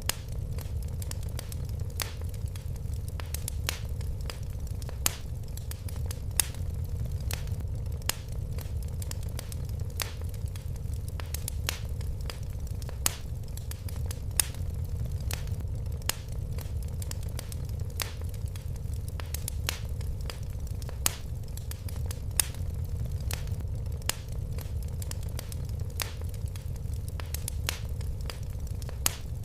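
Wood fire crackling in a fireplace: a steady low rumble of the flames with frequent irregular sharp pops and snaps, a few louder than the rest.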